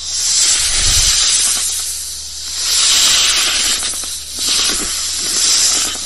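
Snake hissing: three long, loud hisses one after another, each swelling and then easing off.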